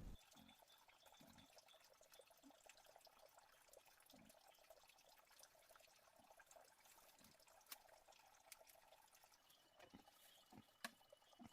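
Near silence: a faint crackling hiss with a few soft taps scattered through it, more of them near the end.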